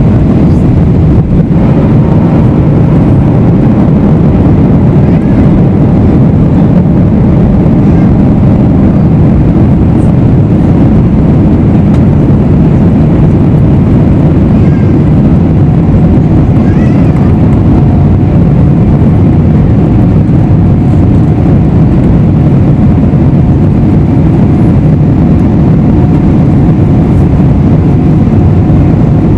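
Steady cabin noise inside a Boeing 777-300ER on approach: the rush of air over the fuselage and the drone of its GE90-115B engines. A faint steady hum joins about halfway through.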